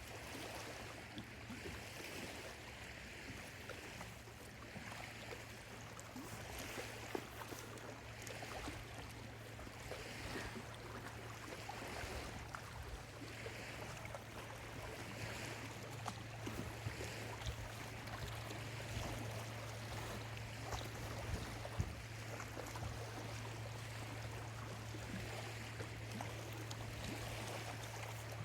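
Small lake waves lapping at the shore, a continuous wash of water with many small splashes and ticks, over a low steady hum.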